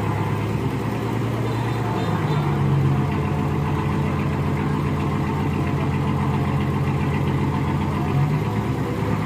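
A heavy machine's engine running steadily, its pitch stepping up slightly about two seconds in and then holding.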